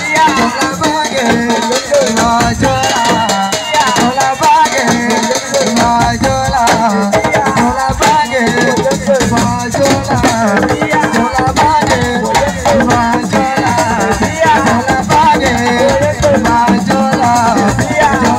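Live assiko band music: shaken rattles and drums keeping a steady beat under a wavering melodic line.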